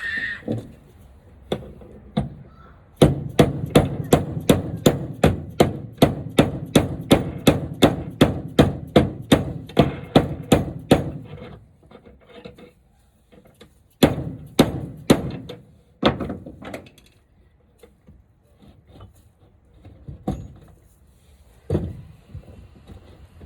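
Hammer blows on wood: a fast, even run of about four strikes a second for some eight seconds, then a handful of single blows spaced out.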